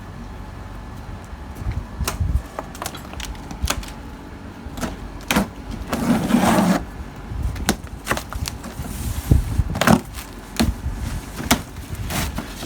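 Scattered sharp clicks and knocks from tools and hardware being handled during an air-conditioner installation, with a short scraping rustle about six seconds in.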